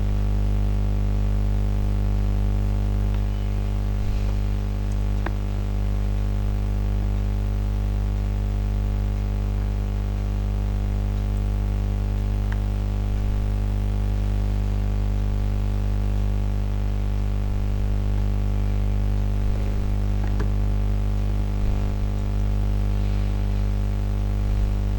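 Steady electrical mains hum with a buzzy stack of overtones and a little static, with a few faint ticks.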